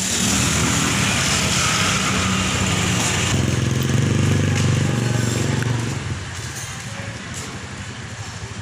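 A motor vehicle engine running close by, with street noise; it grows quieter about six seconds in.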